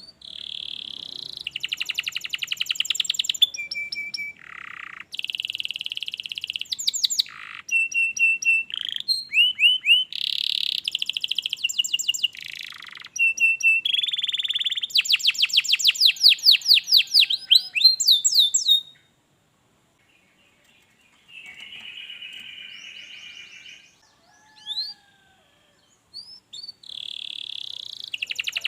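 Domestic canary singing a long, varied song of rapid high trills, rolls and chirps. The song breaks off for a few seconds, a softer buzzy trill follows, and the full song starts again near the end.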